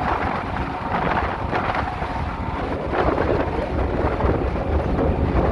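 Strong wind buffeting the microphone on a moving car ferry, over a steady low rumble from the boat.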